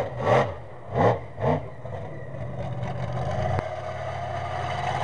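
Bigfoot monster truck's engine revved in four quick blips, each rising and falling in pitch, over about a second and a half, then running steadily and slowly building. A single sharp click sounds about three and a half seconds in.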